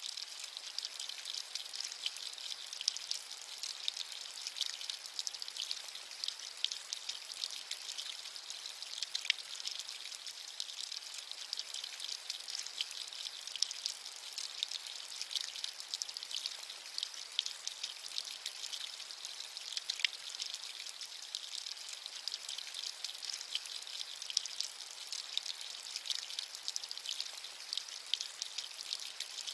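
Rain falling steadily: an even hiss with the ticks of single drops scattered through it.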